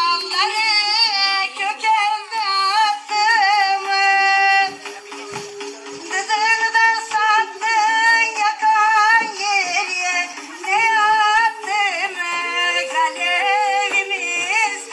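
A Turkish folk tune (türkü) playing: a high, ornamented, wavering melody in short phrases over a lower sustained line.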